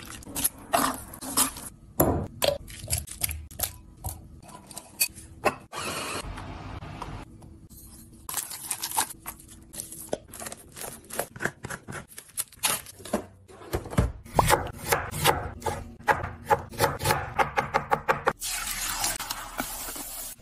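Kitchen food-prep handling sounds: sharp clicks and knocks of utensils and containers, with rubbing and scraping. A run of quick, even strokes, about three a second, comes about two thirds of the way through, and a rustling hiss comes near the end.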